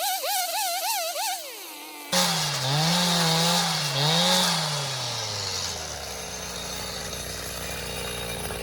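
A chainsaw starts up about two seconds in, revs up and down a few times, then drops back to a steady idle. Before it starts, a warbling high tone is heard.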